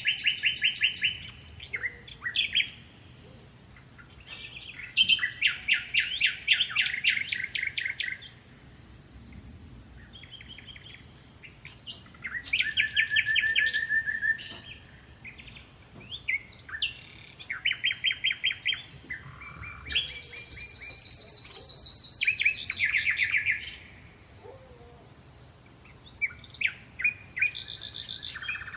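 Songbirds singing: a run of fast, rapidly repeated trilled and chirping phrases, each a second or two long, with short quiet gaps between them. A faint steady high-pitched tone runs underneath.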